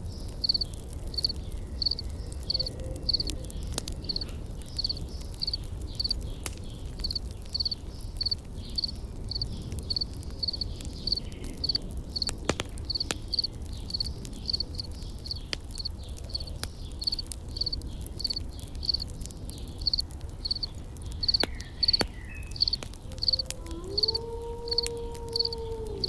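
An insect chirping steadily at about two high-pitched chirps a second, over scattered campfire crackles and a low rumble. Near the end a low held tone slides up and sustains.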